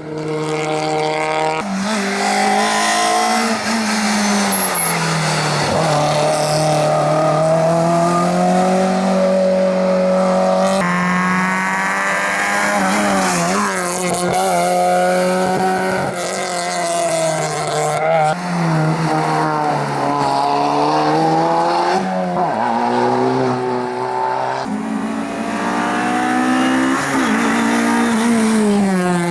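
Rally car engines revving hard, their note rising and falling through gear changes, with some tyre squeal. It comes as a run of short clips that cut abruptly from one car to the next.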